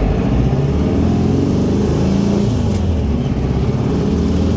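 Hot-rodded VW Bug engine running hard under load, the car accelerating in second gear, its pitch climbing slightly near the end.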